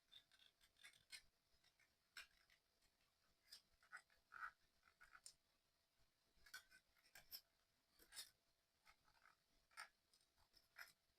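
Faint, irregular small clicks, taps and light scratches of small 3D puzzle kit parts being handled and fitted together by hand.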